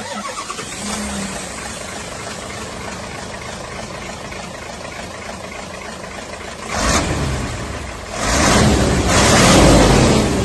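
Radio-controlled model truck running with a steady mechanical hum. It gets louder for under a second about seven seconds in, then again for about two seconds from eight seconds in.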